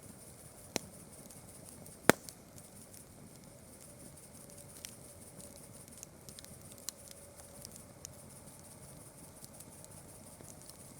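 Campfire crackling: scattered small ticks and pops over a faint hiss, with one sharp, loud pop about two seconds in.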